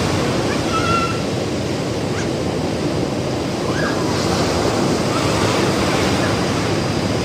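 Ocean surf breaking and washing on a beach, a steady rushing roar, with a few faint short chirps above it.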